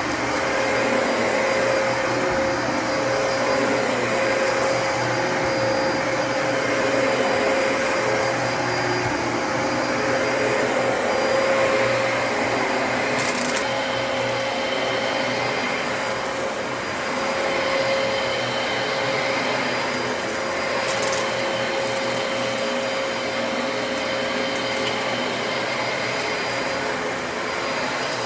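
Dyson DC33 upright vacuum cleaner running steadily with a whine in its sound. Twice a brief crackle cuts through it, about halfway and again about three quarters of the way in.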